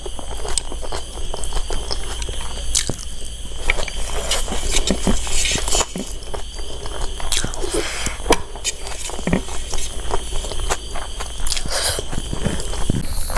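Chewing and wet mouth sounds from eating a mouthful of curry-soaked rice by hand, made up of many short clicks and smacks.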